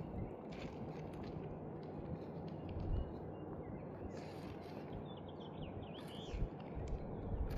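Flat bar working under old asphalt shingles to free the nails: a few dull knocks, about three seconds in and several near the end, over a steady outdoor background, with birds chirping briefly in the middle.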